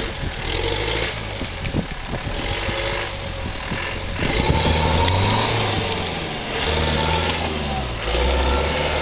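Engine of an off-road 4x4 revving in surges as it crawls through dense undergrowth, rising and falling several times and loudest in the second half.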